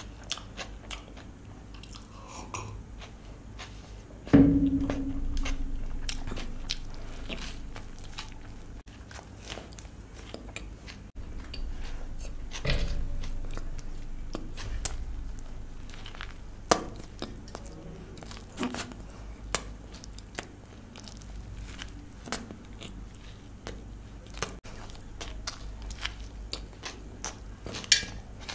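Close-miked person eating: chewing and biting with many sharp mouth clicks and crunches. A sudden louder sound about four seconds in fades over a few seconds, and another louder stretch follows after about twelve seconds.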